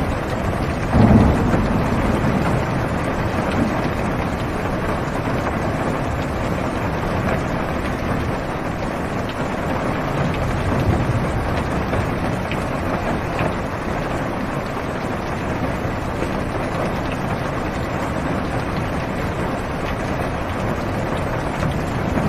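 Heavy rain falling on a car's roof and windows, heard from inside the cabin as a steady, muffled hiss, with a low rumble of thunder about a second in.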